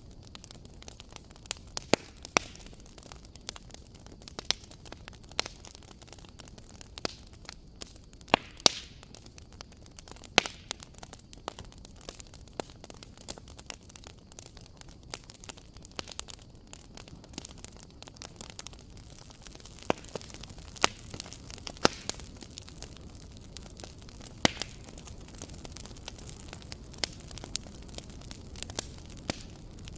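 Wood fire crackling: irregular sharp pops and snaps over a soft steady hiss, with a few louder snaps scattered through.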